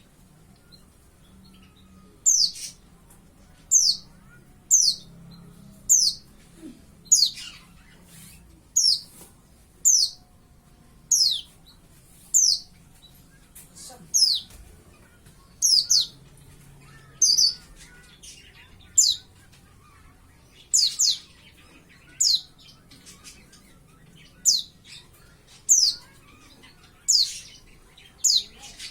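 Young white-eye (pleci) calling: a series of short, very high chirps, each sliding downward, about one a second.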